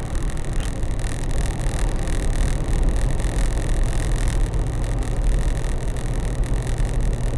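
6.5-litre turbo diesel in a Toyota Land Cruiser FJ80 running at a steady cruise, with a constant low engine drone under road and tyre noise.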